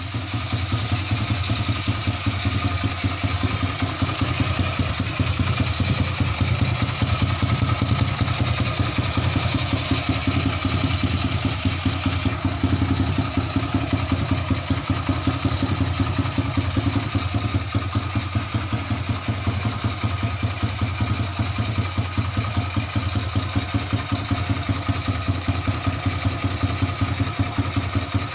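Honda Astrea motorcycle's single-cylinder four-stroke engine idling steadily while warming up. It runs through an aftermarket oval 'rokok'-style muffler, with rapid, even exhaust pulses.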